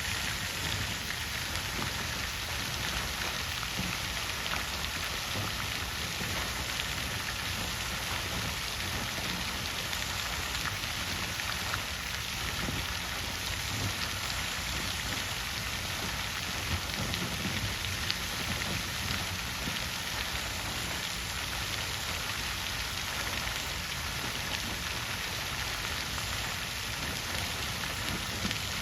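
Water fountain splashing steadily: a continuous hiss of falling water with a low rumble underneath.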